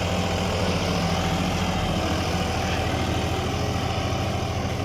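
John Deere tractor's diesel engine running at a steady speed, with an even low drone and a faint steady whine above it.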